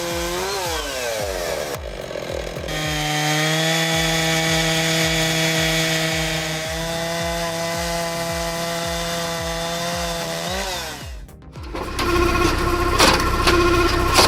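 Chainsaw engine running at high speed. Its pitch dips and picks up near the start and again about eleven seconds in, then it cuts off. Near the end a different machine sound with sharp clicks takes over.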